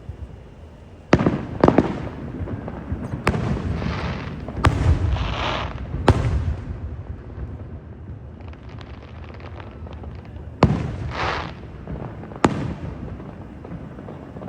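Fireworks display: aerial shells bursting with about seven sharp bangs at irregular intervals, each followed by a rumbling echo. Crackling hiss trails after some of the bursts, with a quieter lull in the middle.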